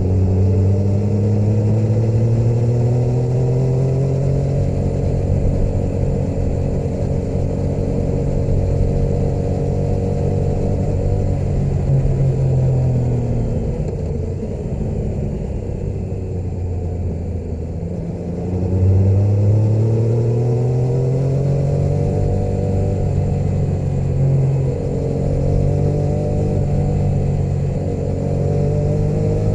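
Motorcycle engine under way: it pulls up in pitch at first, holds steady, then eases off so the pitch falls about halfway through, and accelerates hard again a few seconds later, with a brief dip near the end that sounds like a gear change.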